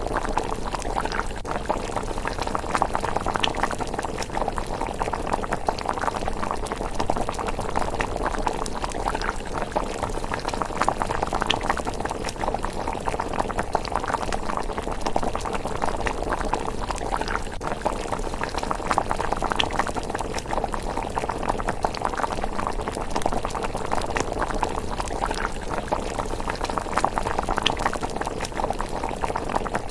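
A pot of miso rice porridge simmering with a steady bubbling, full of small pops.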